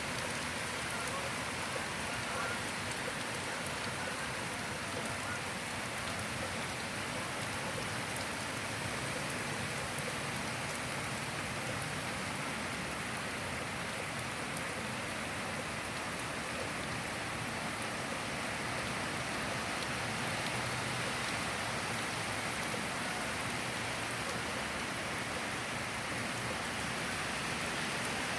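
Tropical-storm rain falling steadily: an even, unbroken hiss of rain.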